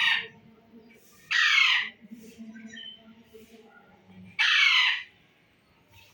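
Pet parrot screeching: loud, harsh, squawking calls that fall in pitch, each about half a second long. One trails off at the start, another comes about a second and a half in, and a third about four and a half seconds in.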